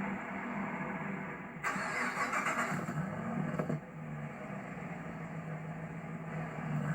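Chevrolet Camaro SS's 6.2-litre V8 idling with a steady low note. A rush of noise rises over it about one and a half seconds in and stops about two seconds later.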